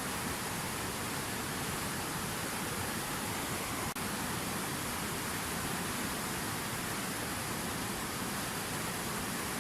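Water pouring down a fountain waterfall: a steady, even rush of falling water, with a momentary dip about four seconds in.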